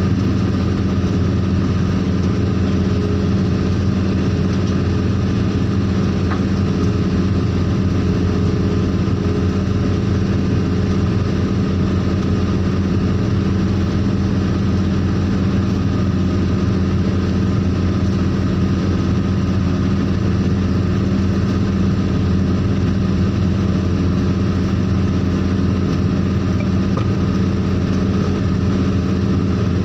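A vehicle engine running steadily at a constant speed, a low, even hum with no revving or changes.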